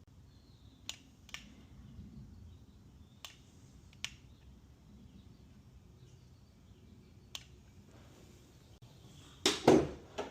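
Several sharp single clicks spaced a second or more apart, then a louder, deeper double thump near the end, followed by one more click.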